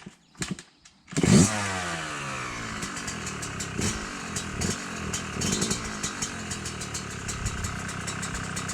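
A dirt bike engine catches about a second in with a quick rev that falls away, then runs at a steady idle.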